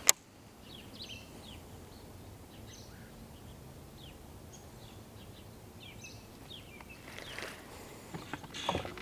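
A single sharp click right at the start, then quiet open-air ambience with small birds chirping now and then in short, high chirps.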